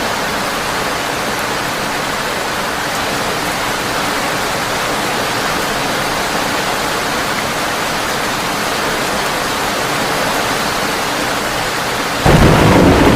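Heavy rain drumming steadily on a tin roof, an even hiss. About a second before the end, a loud clap of thunder breaks in suddenly with a deep rumble.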